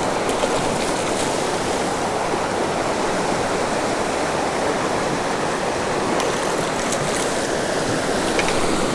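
Creek water rushing steadily over a small waterfall, a constant even wash of noise.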